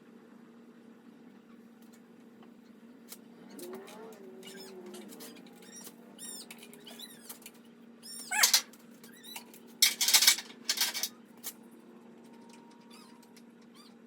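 Metal tools clinking and scraping on an engine, with a few loud, sharp clanks about eight and ten to eleven seconds in, over a steady low hum.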